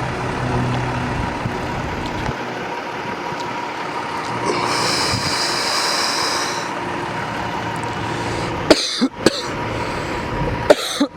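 Semi-truck traffic around a truck yard: diesel engines running, with a high steady tone for about two seconds midway and a few short, sharp sounds near the end.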